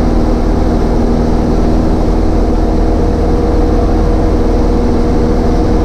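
Cessna 152's four-cylinder Lycoming piston engine and propeller running at a steady speed, an even drone with a few held tones.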